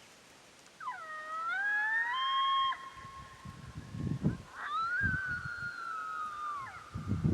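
Coyote lone howls played through an electronic predator call. One howl starts about a second in, rises and holds, then breaks off; a second starts near the five-second mark, holds and slowly falls. A few low thumps come in between and near the end.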